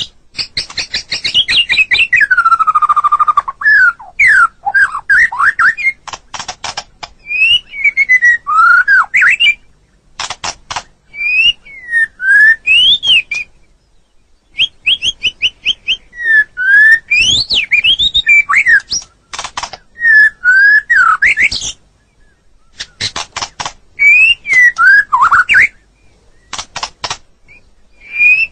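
White-rumped shama (murai batu) singing: phrases of clear whistled notes that slide up and down, mixed with fast rattling clicks, with brief pauses between phrases.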